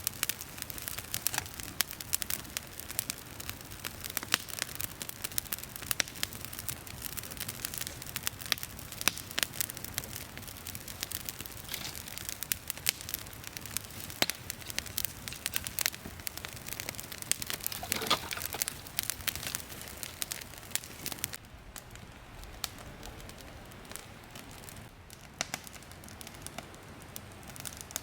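Wood campfire crackling and popping, with dense snaps over a soft hiss that thin out and quieten for the last few seconds.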